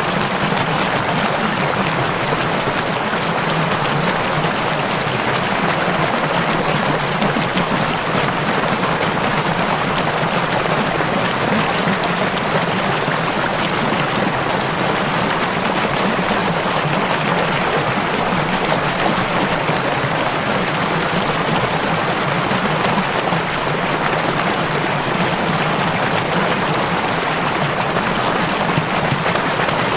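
Running water, such as a stream or river: a steady, even rush with no breaks or changes.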